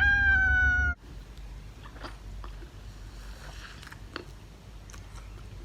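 A drawn-out, slightly falling voice sound for about a second, then close-up chewing and biting: soft mouth clicks and crunches of a person eating.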